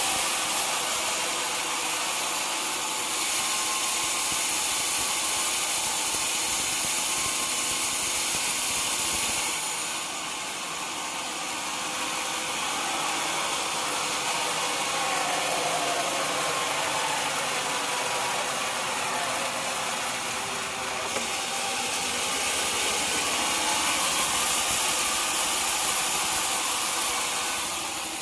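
Sawmill running and cutting through a log: a steady, hissing saw noise over the running engine. It is louder for about the first ten seconds, eases off, then swells again after about twenty seconds.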